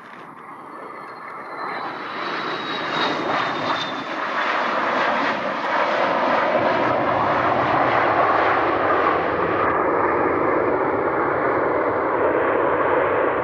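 A large airliner's engines grow steadily louder over about six seconds as the plane comes close, then hold a loud, steady roar. A faint high whine drifts slightly down in pitch in the first few seconds.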